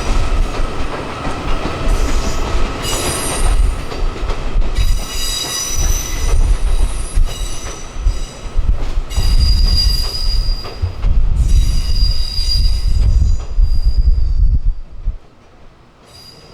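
Train rolling past with a low rumble and high-pitched wheel squeal that comes and goes in screeching stretches; the sound drops away sharply near the end.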